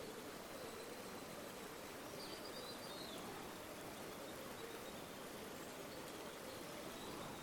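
River water flowing steadily, a continuous rushing and gurgling. A faint high chirp sounds about two seconds in.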